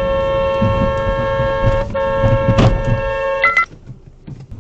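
Car horn held down for about three and a half seconds, one steady blare with a short break near the middle and a brief change in pitch just before it cuts off, over road and engine noise.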